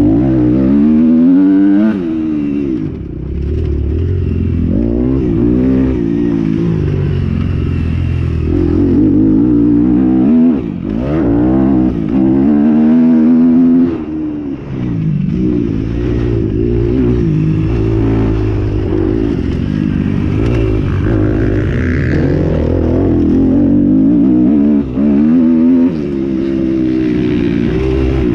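Motocross motorcycle engines revving hard, their pitch repeatedly climbing and dropping back, with more than one bike heard at once.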